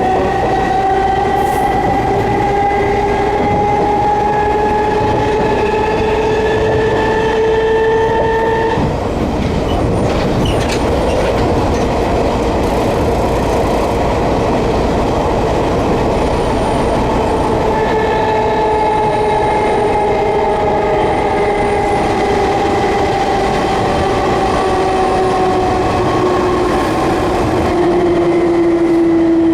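Enshu Railway 30-series electric railcar heard from inside, with the steady rumble of wheels on rail. Over the rumble, the traction motor and gear whine rises in pitch as the car speeds up, drops out about nine seconds in, and comes back about halfway through, falling in pitch as the car slows.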